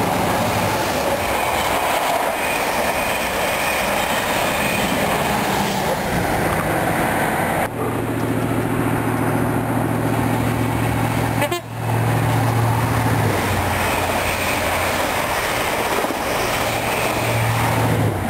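InterCity 125 High Speed Train running past at speed: rushing wheel-and-rail noise with the drone of its class 43 diesel power car. After a cut, a diesel engine's low, steady drone as a train approaches.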